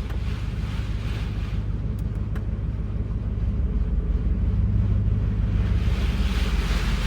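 Pickup truck engine running low and steady, heard from inside the cab, as the truck is driven forward to get off the car wash's floor treadle. A rushing hiss grows louder near the end.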